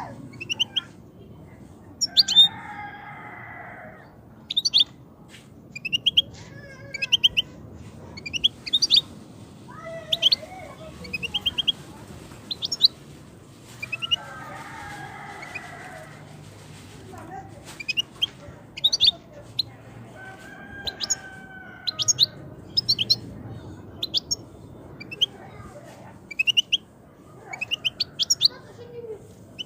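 European goldfinch singing: bursts of quick, sharp twittering notes, one cluster after another with short gaps. A few lower, longer calls come in between the bursts.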